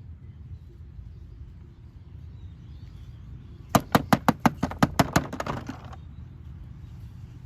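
Hard plastic toy vehicles clicking and clattering: a quick run of about a dozen sharp clicks a little under four seconds in, over a low steady hum.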